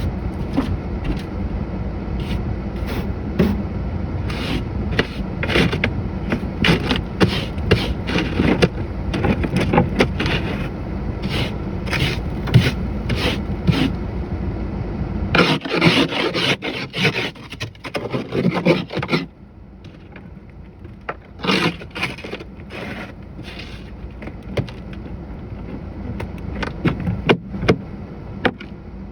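Snow being cleared off a pickup truck: many short, irregular scraping strokes, thickest in the first half and again just past halfway. A steady low rumble sits under them and cuts off about halfway through.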